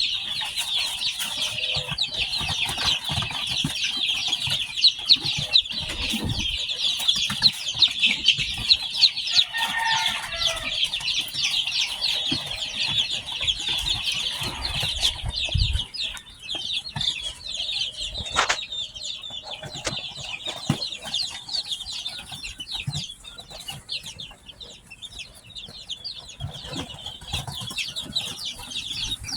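A brood of newly hatched chicks peeping, many overlapping high chirps at once, thinning out somewhat after about halfway, with a few low bumps underneath.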